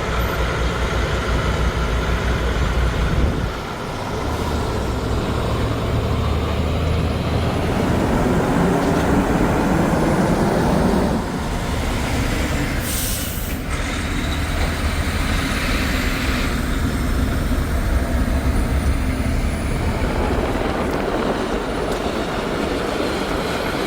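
Heavy truck diesel engines running under load, with a short sharp hiss of air about halfway through.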